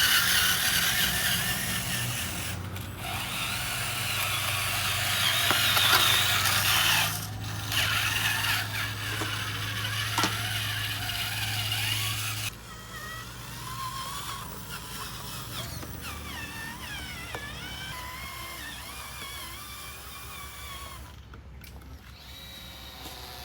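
Small electric motors and gearboxes of RC construction models whirring loudly over a steady low hum. About halfway through it drops suddenly to a quieter motor whine that rises and falls in pitch.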